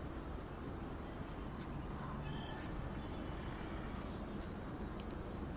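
Outdoor ambience: a steady low rumble with faint, short high chirps of small birds scattered through it, a few each second, and a few light clicks.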